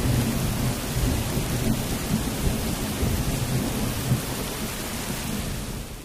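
Thunderstorm sound effect: steady rain with a low rumble of thunder underneath, fading out near the end.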